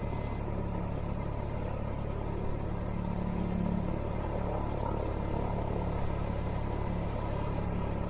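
Cessna 172R's four-cylinder Lycoming engine running steadily, a constant low drone heard from inside the cockpit.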